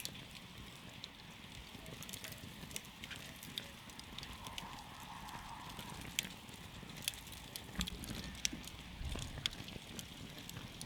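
Wood campfire crackling: irregular sharp pops and snaps from the burning wood, over the steady low rumble of the flames.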